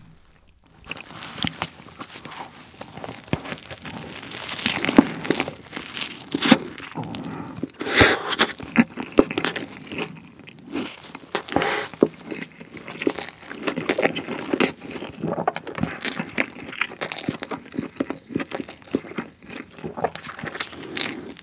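Biting into and chewing a Subway steak and cheese sandwich topped with buldak spicy stir-fried noodles and vegetables: a run of sharp crunches with chewing between them, the loudest about five to twelve seconds in.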